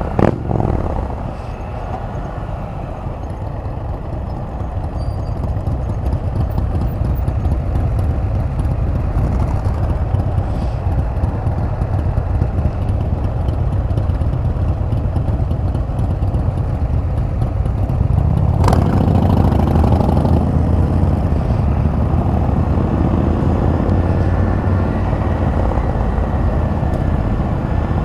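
Can-Am Spyder RT's three-cylinder engine running under way, with a steady low rumble and road noise. A sharp click comes a little past halfway, after which the engine gets louder.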